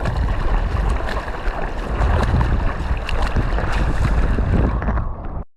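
Strong wind buffeting the action camera's microphone in heavy, gusty rumbles over the noise of the sea. The sound drops out suddenly near the end.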